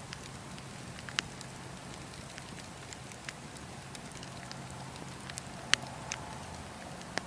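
Wood fire burning with a steady low hiss and irregular sharp crackles and pops, the loudest about a second in and near six seconds.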